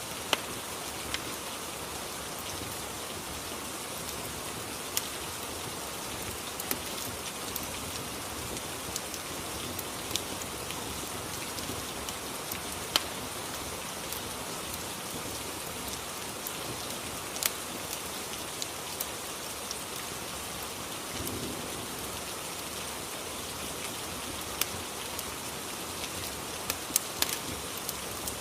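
Steady rain ambience, with sharp, irregular crackles from a fireplace scattered through it.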